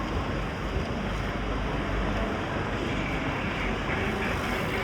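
Steady outdoor street ambience: a continuous rushing noise with a low rumble underneath.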